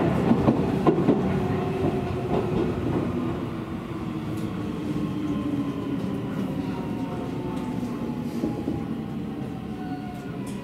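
Seibu Railway electric train running on the track, with a few wheel clicks over rail joints in the first second. Its motor whine slowly falls in pitch and the running noise eases off as the train slows.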